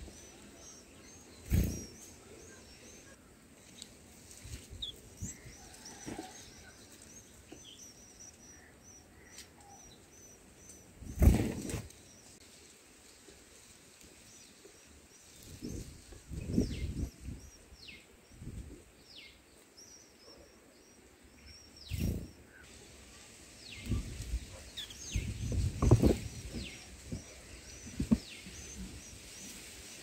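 Thin, high bird chirps and short down-sliding peeps, rapid at first and scattered later. Several dull low thumps and rumbles cut in over them, the loudest about eleven seconds in and a cluster near the end.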